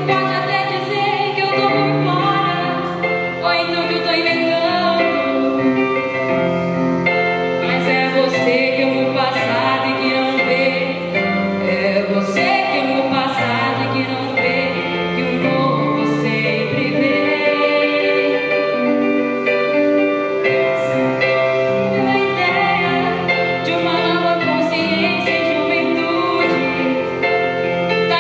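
Woman singing with instrumental accompaniment, holding long notes.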